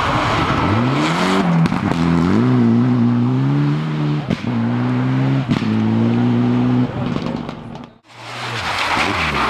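Rally car engine revving up and held at high revs, with a few short breaks as it shifts gear, then fading as the car goes away. The sound drops out abruptly about eight seconds in, and a second car's engine rises near the end.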